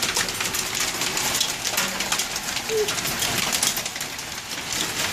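Hailstones pelting down in a hailstorm: a dense, irregular clatter of hard ticks and knocks over a steady hiss.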